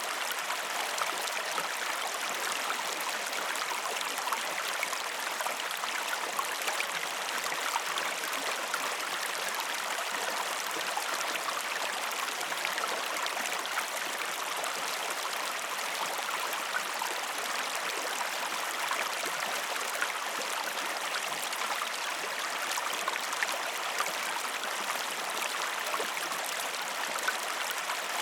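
A stream flowing: a steady babble of running water, full of tiny splashing ticks, with no change in level.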